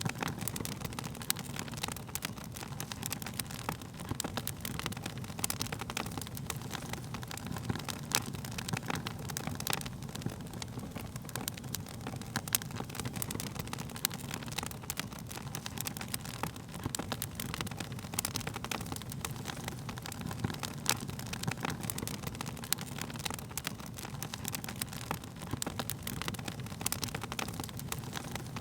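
Wood fire crackling: frequent, irregular sharp pops and snaps from the burning wood over a steady low rumble of the flames.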